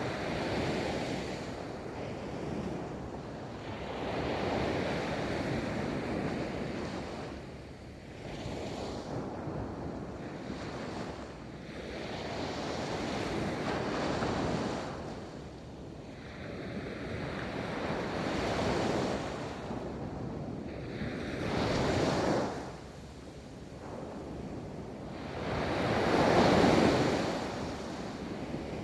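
Ocean waves rolling onto a beach, each breaking wave swelling into a wash of surf and then ebbing, several in turn, the loudest about three-quarters of the way through. Some wind noise on the microphone.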